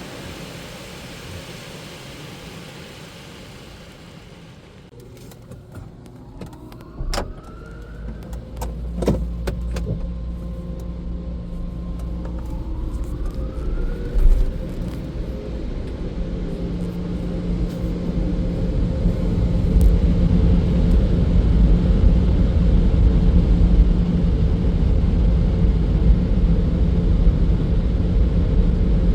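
Automatic car wash machinery heard from inside a car. A hiss of spray fades out after a few seconds, then come clicks and two short rising whines, and a steady low drone builds and grows louder.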